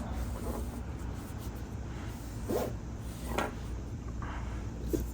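A few short rubbing and scraping sounds of things being handled on a work table, over a low steady hum.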